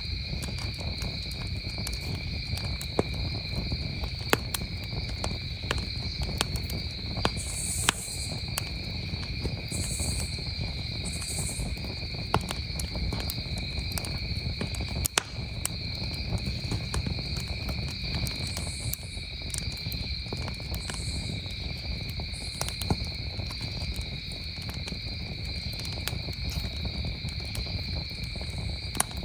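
Wood campfire crackling, with scattered sharp pops, the loudest about 8 and 15 seconds in, over a steady chorus of crickets.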